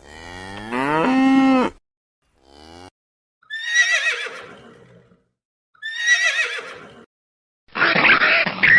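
A cow mooing once, a long call rising in pitch, followed by two high, quavering horse whinnies. Near the end a different, rougher animal call begins.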